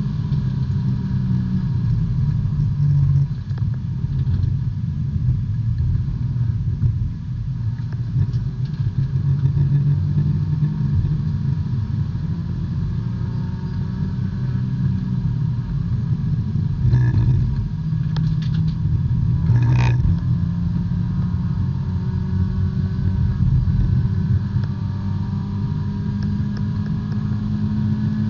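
B-Spec race car's small four-cylinder engine running at a fairly steady pitch, heard from inside the car, with two short sharp knocks about three seconds apart roughly two-thirds of the way through.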